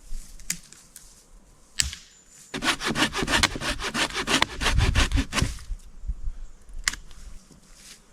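Saw cutting wood in a quick, even run of strokes lasting about three seconds, with a single sharp knock before and after.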